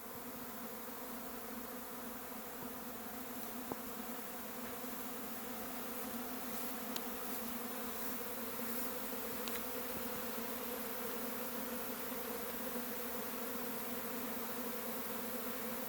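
A honey bee swarm in flight, thousands of bees buzzing together in a steady, low hum that grows slightly louder.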